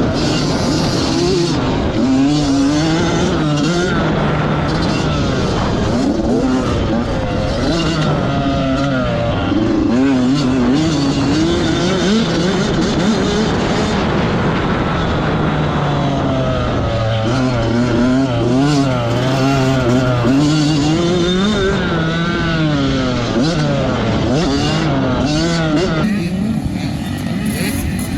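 Dirt bike engines revving up and down as the bikes ride around, the pitch rising and falling with throttle and gear changes, with more than one bike running at once.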